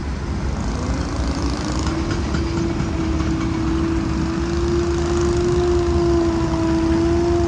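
Tractor engine running steadily with a low rumble, its pitch rising about a second in and then holding level.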